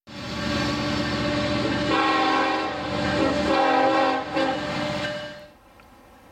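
Diesel freight locomotive's air horn sounding a chord of several notes at once for about five seconds, over the low rumble of the locomotive, swelling a little twice before cutting off suddenly.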